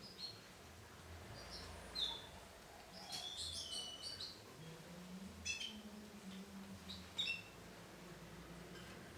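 Female canary giving short chirping calls: scattered brief chirps, with the busiest run about three to four seconds in.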